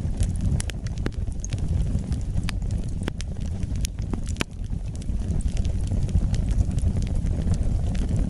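Wood fire burning in a fireplace: a steady low rumble of flames under frequent, irregular sharp crackles and pops from the burning wood.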